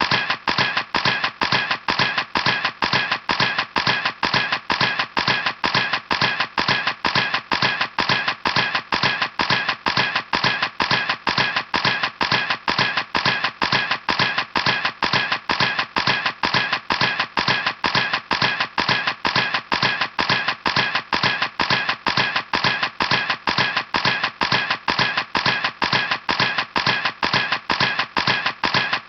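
Camera shutter clicking over and over at a steady rate of about three clicks a second, each one alike.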